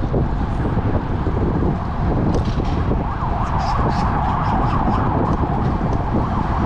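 Strong wind buffeting the action camera's microphone on a moving bicycle, a loud, steady rumble. From about two and a half seconds in, a higher, wavering tone rises and falls over it, with a few light ticks.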